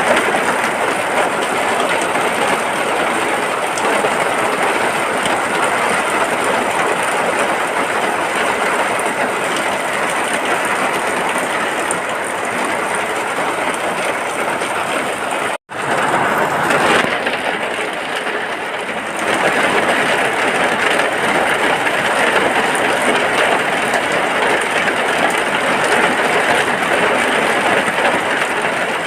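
Rain falling steadily, an even hiss with no let-up, broken by a momentary dropout about halfway through.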